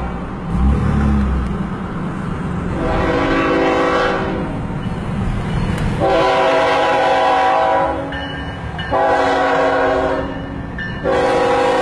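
Freight locomotive air horn sounding four blasts, long, long, shorter, long, in the pattern of a grade-crossing signal, over the rumble of the passing train. The last blast is still going at the end.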